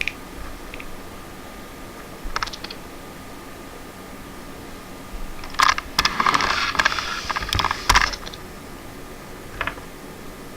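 A few separate sharp clicks, then about two seconds of rapid clicking and rattling in the middle, and one more click near the end.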